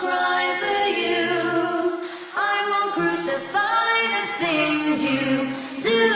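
Background music: several voices singing in harmony without instruments, holding long notes that change every second or so.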